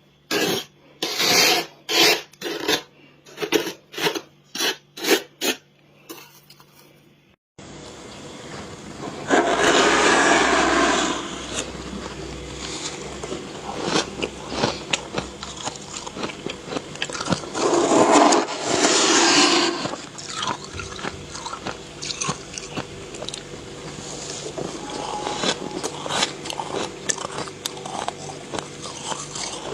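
Frost being scraped: about ten evenly paced rasping strokes. After a sudden change in background, two long scraping passes are heard, with many small crisp crunches of frost between and after them.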